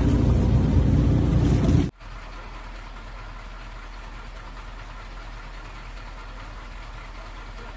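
A loud low rumble of a motor vehicle's engine that cuts off abruptly about two seconds in, followed by a quieter, steady engine hum, like an engine idling.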